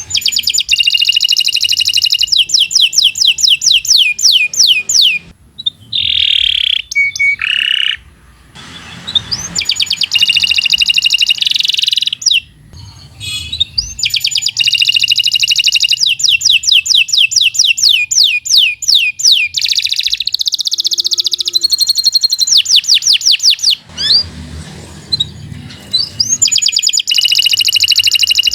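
Domestic canary singing long phrases of fast, rapidly repeated trills, with a few short breaks between the phrases.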